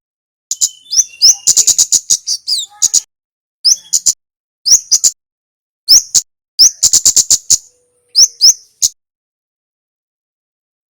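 Male kemade (kemlade merah) singing: short, quick bursts of high, sharp chirps with upward-flicking notes, repeated every second or so, then stopping about two seconds before the end.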